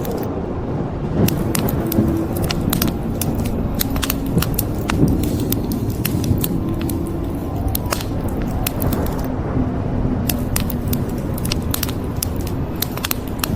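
Wood fire crackling, with frequent sharp snaps and pops over a steady low rumble.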